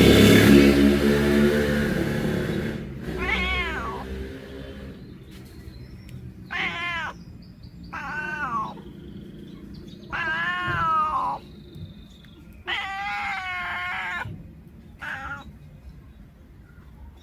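Domestic cat meowing about six times, drawn-out rising-and-falling calls a second or two apart, the longest near the middle; a cat calling like this at a bird it has spotted. A loud noise fades away over the first couple of seconds.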